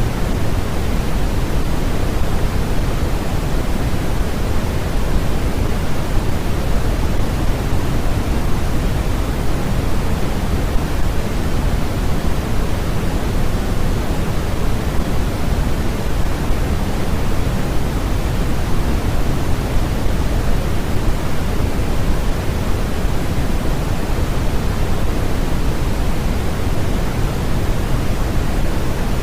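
Steady electronically generated noise, an even hiss that never changes, heavier in the low end than the high, like pink noise.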